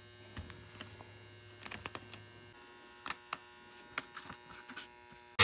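Low steady hum that stops about halfway, with scattered light clicks and taps. A power tool starts up loudly right at the very end.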